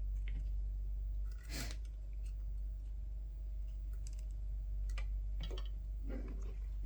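A few scattered light clicks and taps of small plastic headset parts being handled and pried during disassembly, over a steady low electrical hum.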